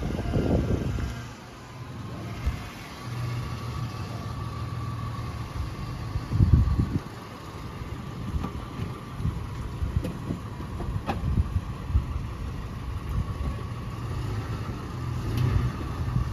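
Pickup truck engine running at low revs while it pushes a non-running car, with a steady hum. A heavy thump comes about six and a half seconds in and a few sharp knocks near the middle, over wind noise on the microphone.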